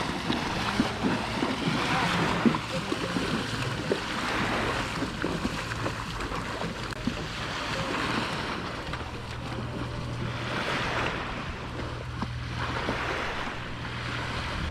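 Ocean surf breaking and washing up the beach, swelling and fading every few seconds. A low steady hum joins in about nine seconds in.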